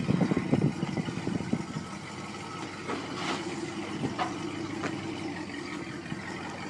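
Range Rover P38's 4.6-litre Rover V8 running through its stock exhaust: loud, uneven pulsing for about the first two seconds, then settling to a steadier, quieter idle, with a few faint clicks.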